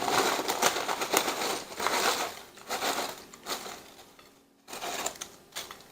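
Bag of potato chips crinkling as the chips are poured out onto a plate, with a dense crackle of chips and plastic. It fades away about four seconds in, then comes back more faintly.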